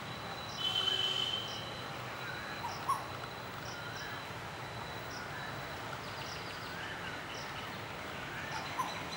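Birds chirping faintly over steady outdoor background noise, with a short rising call about three seconds in and again near the end. A brief burst with two high steady tones comes about a second in.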